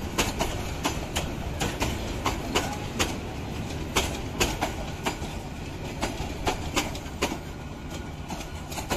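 Passenger train coaches rolling past, their wheels clicking sharply over rail joints about two or three times a second above a steady low rumble.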